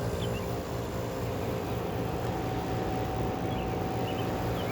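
1973 Emerson Quiet Kool 6,000 BTU window air conditioner running steadily: the rush of air from its Westinghouse fan motor over a constant low hum from its Tecumseh AE reciprocating compressor.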